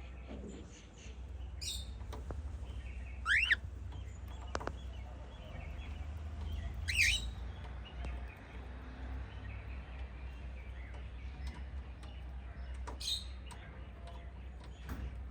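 Pet cockatiels and budgies chirping: scattered short calls, the loudest three sweeping sharply in pitch about three, seven and thirteen seconds in, over a steady low hum.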